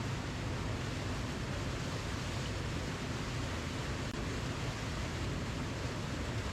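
Waterfall: a continuous, even rush of falling water, deepest at the low end, with no breaks or changes.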